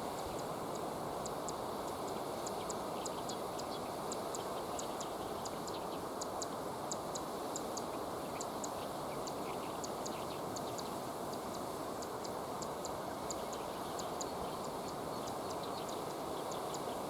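River water flowing steadily, with many quick, high-pitched ticks scattered over it throughout.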